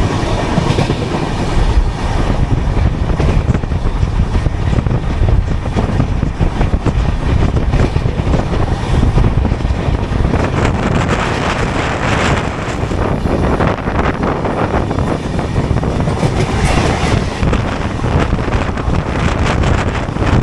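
Indian Railways express train running at speed, heard from inside the coach near the door: a steady loud rumble of wheels on the rails, with wind buffeting the microphone.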